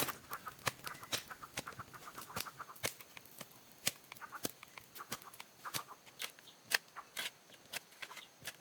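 Chickens clucking, in short runs of brief notes, among many sharp clicks and taps.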